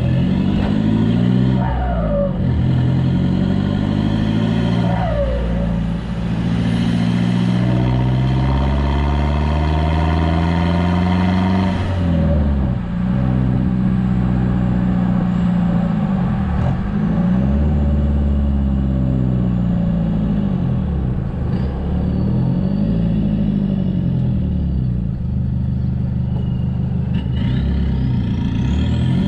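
Toyota Hilux turbo-diesel engine with its muffler deleted, driving under load, its pitch rising and falling repeatedly with acceleration and gear changes.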